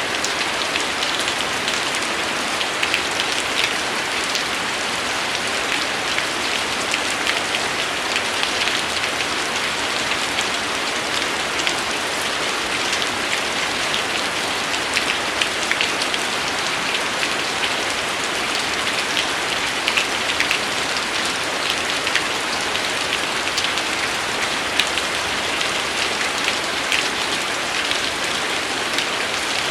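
Steady rain falling on a hard surface: a dense, even hiss dotted with many individual drop ticks.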